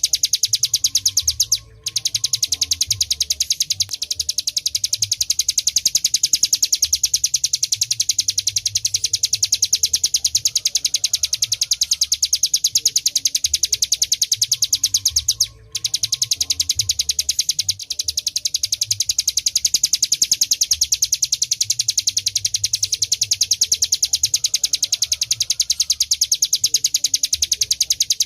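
A ciblek gunung singing a high-pitched, very rapid drilling trill ('ngebren'), the song bird's prized continuous style. The trill runs unbroken except for two brief pauses, about two seconds in and again just past the middle.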